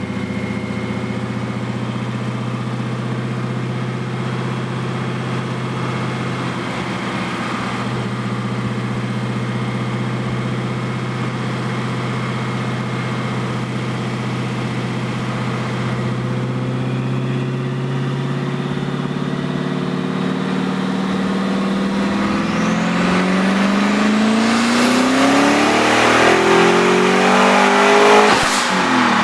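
Twin-turbo Hemi V8 running on a chassis dyno, held at a steady engine speed for about twenty seconds. It then makes a full-throttle pull, its pitch climbing steadily while a high whine rises with it, and the revs drop sharply near the end as the throttle is lifted.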